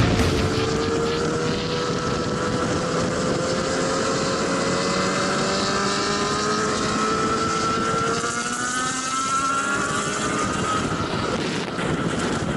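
Motorcycle engine under hard acceleration, its pitch climbing steadily for several seconds, dropping about eight seconds in and climbing again, over a steady rush of wind.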